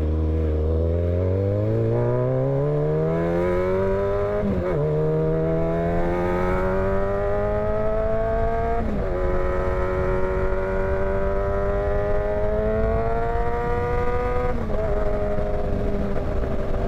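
Motorcycle engine accelerating up through the gears: the pitch climbs steadily in each gear, with three quick upshifts, about four and a half, nine and fifteen seconds in, each dropping the pitch before it climbs again.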